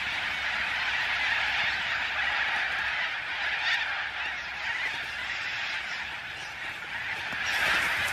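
A large flock of little corellas calling all at once: a continuous dense wall of screeching cockatoo calls, swelling a little near the end.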